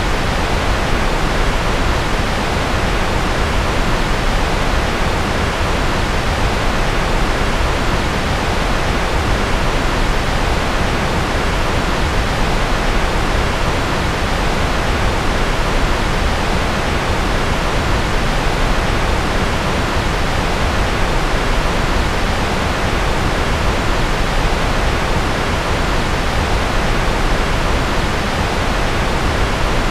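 Steady generated white noise: an even, unchanging hiss, fuller in the low end and softer in the highs.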